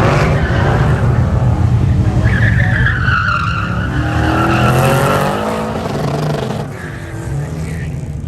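Autocross car driven hard, tyres squealing through a turn about two seconds in, then the engine revving up as it accelerates away, growing fainter near the end.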